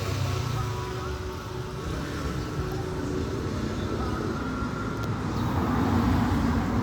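Steady vehicle traffic noise with a low engine hum.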